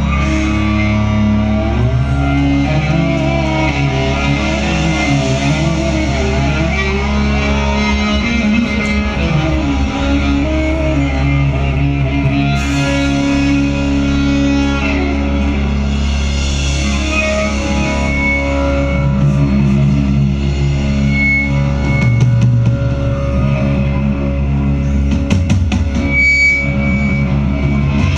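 Live rock band playing loud amplified music, with a plucked-string lead over a steady low drone.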